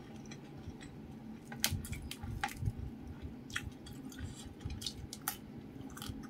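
Close-up chewing of a mouthful of rice and fried fish, with wet mouth smacks and a few sharp clicks at irregular moments.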